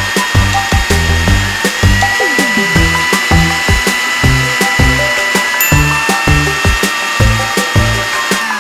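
Small toy blender's motor whirring steadily as it blends mango and ice into a smoothie, winding down near the end, over background music with a steady beat.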